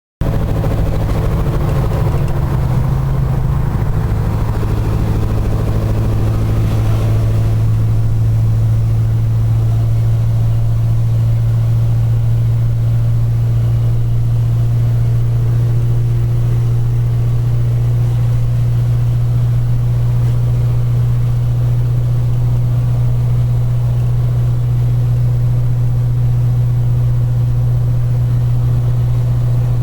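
Scania 143 450's 14-litre V8 diesel running at a steady speed: an even, deep drone that holds one pitch, with extra hiss over it that fades out after about seven seconds.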